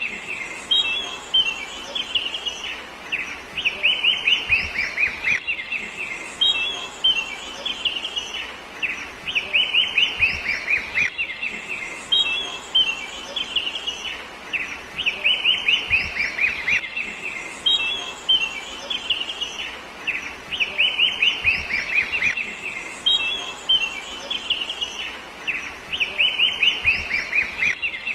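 Birds chirping in quick runs of short, falling high notes, the same few-second stretch of song repeating over and over about every five and a half seconds, like a looped nature-sound track.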